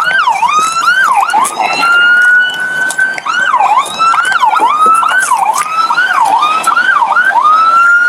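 Electronic police siren. It starts with quick up-and-down yelp sweeps and switches to a slow rising wail about two seconds in. Rapid yelps follow from about three seconds to seven, and another slow wail rises near the end.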